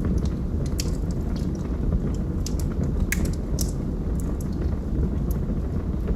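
Log fire burning: a steady low rumble of the flames with irregular sharp crackles and pops from the burning wood, the strongest a little past the middle.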